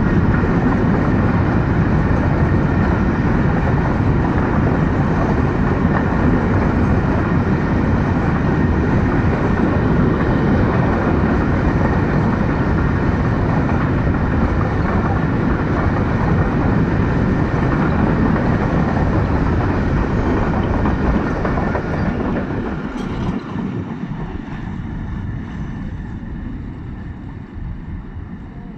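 A long freight train's wagons running past fast, wheels on the rails in a steady loud rumble. About 22 seconds in it starts to fade as the end of the train passes and draws away.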